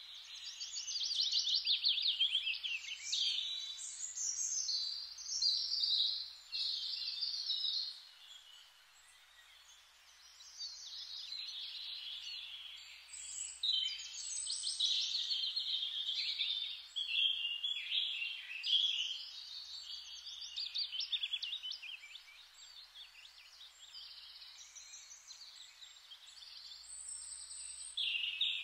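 Many small birds chirping and singing at once, a busy chorus of quick high chirps that eases for a couple of seconds about eight seconds in.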